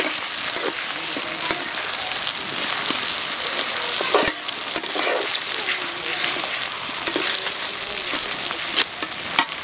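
Sliced onions and tomato sizzling in hot oil in a metal karai, stirred with a metal spatula that clicks and scrapes against the pan now and then, twice in quick succession near the end.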